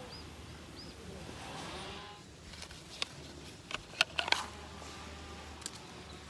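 A few sharp clicks and clinks about three to four and a half seconds in, over a quiet outdoor background with a couple of brief chirps early on.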